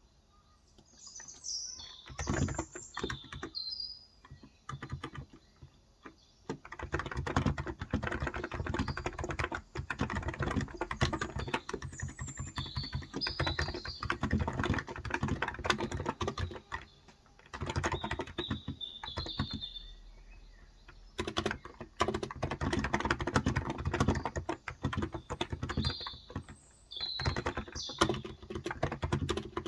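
Typing on a Cox Endeavor electro-capacitive (non-contact) 35 g tenkeyless keyboard: fast runs of keystrokes broken by a few short pauses. Birds chirp now and then behind the typing.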